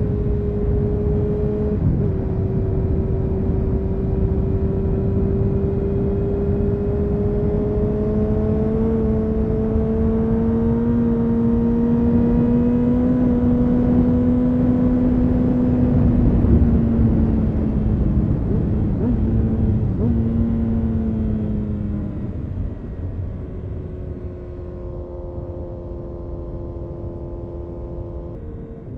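Honda CBR929RR Fireblade's inline-four through an Erion full racing exhaust, riding on part throttle. The note steps down in pitch about two seconds in and then climbs slowly for over ten seconds. It eases off and falls, steps again about two-thirds through, and settles quieter and lower, over a constant low rumble of wind and road.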